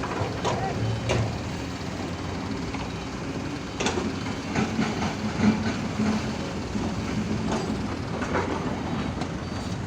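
Heavy diesel excavator engine running steadily, with scattered metallic clanks and knocks from the working machine.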